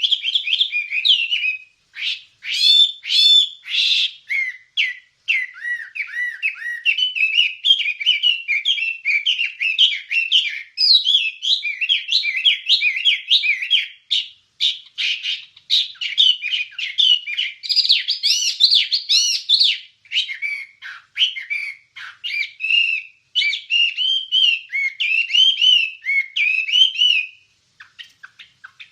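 Wambie songbird singing a fast, continuous chattering song of short chirps and whistled notes, with a short quieter break near the end.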